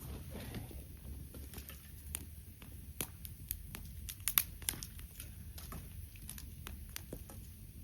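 Wood campfire crackling, with irregular sharp pops scattered through it; the loudest comes about four seconds in.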